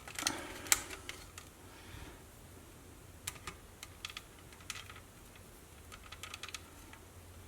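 Plastic snap-fit clips of a Sony WM-B18 Walkman case clicking as the case is pried apart with a thin knife, with light scraping of plastic. The clicks are small and irregular, and one is louder just under a second in.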